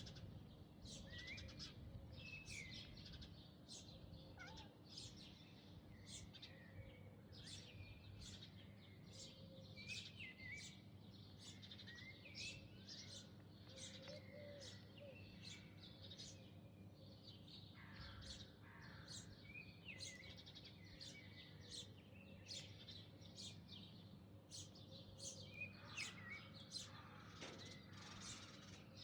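Faint chirping of small birds: rapid short high chirps, about one to two a second, with a few lower sliding calls, over a steady low hum.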